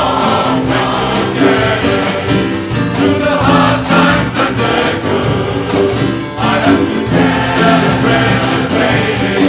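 A large choir singing a song with a percussion band drumming along.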